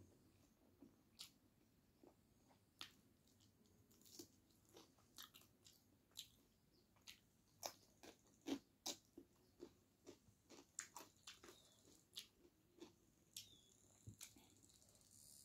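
A person chewing mouthfuls of rice and meat curry eaten by hand, with wet mouth smacks and sharp clicks at irregular intervals, loudest about eight to nine seconds in.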